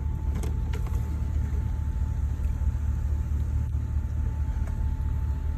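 Car engine idling: a steady low rumble heard from inside the cabin while the car waits at a drive-thru speaker.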